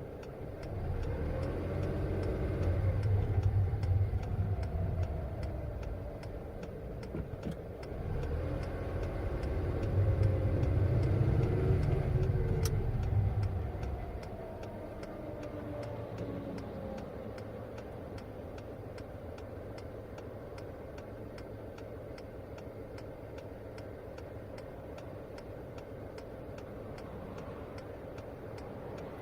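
Car engine revving up and easing off twice, loud and deep, then running steadily at a lower level, with a faint regular ticking throughout.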